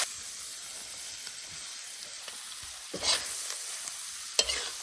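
Ginger, garlic and green peppers sizzling in hot oil in a pan, with a metal spatula scraping the pan twice, about three seconds in and near the end.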